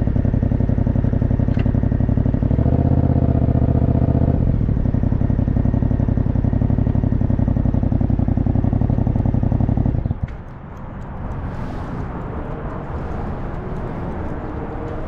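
Yamaha motorcycle engine idling steadily, with a short small rise in revs about three seconds in. The engine then cuts off abruptly about ten seconds in, leaving only background noise.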